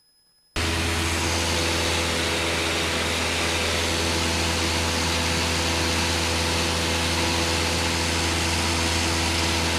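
Cessna light aircraft's piston engine and propeller running steadily, heard inside the cabin as a constant drone with a low hum; it cuts in abruptly about half a second in.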